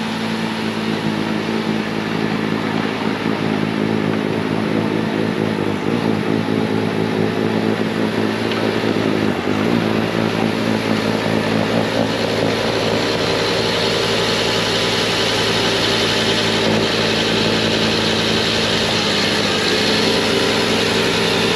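Bobcat T66 track loader's diesel engine running steadily at full throttle, driving a snowblower attachment.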